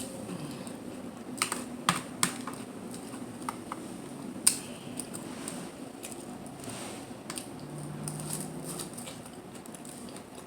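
Close-miked eating of mussels and clams: quiet chewing and handling with a few sharp clicks, the loudest about four and a half seconds in.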